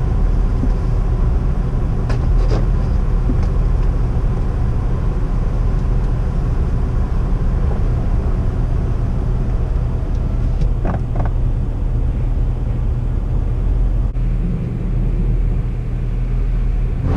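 Car engine idling, a steady low rumble heard from inside the cabin, with a few faint knocks.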